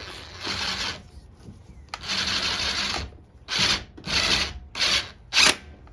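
Six bursts of rough, rasping noise from hand work on the mower: two about a second long, then four shorter ones coming quicker near the end, the last the loudest.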